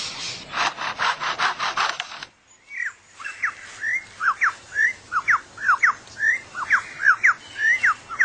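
Superb lyrebird mimicking chainsaws, a run of rasping strokes about five a second that stops after about two seconds. After a short pause the bird gives a quick series of whistled notes, each sliding down or up, about four a second.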